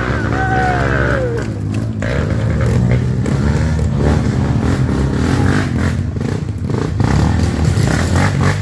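Off-road trail motorcycle engines running and revving; about a second in, one engine's revs fall away.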